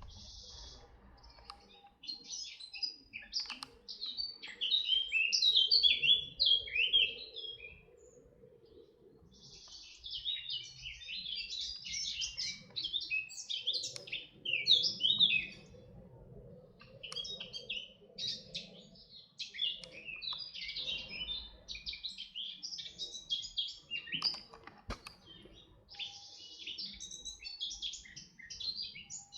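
Songbirds singing: runs of rapid, high chirping notes in several phrases, with short pauses between them.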